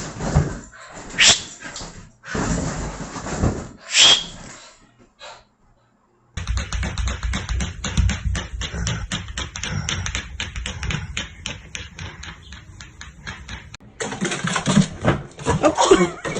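Dog sounds across a few short clips. In the middle comes a long run of rapid, even clicks.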